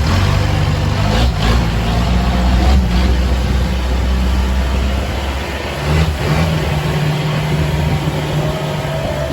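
Boat engine running steadily up close, its note changing about six seconds in.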